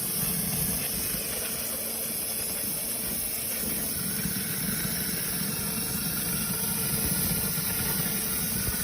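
A machine running steadily, a low hum under a constant hiss, starting abruptly with no change through to the end.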